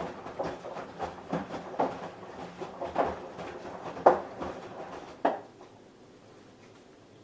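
Samsung Eco Bubble washing machine running a wash, laundry tumbling in the turning drum with irregular swishes and thuds about twice a second. The drum stops about five and a half seconds in, the usual pause between turns in a wash cycle.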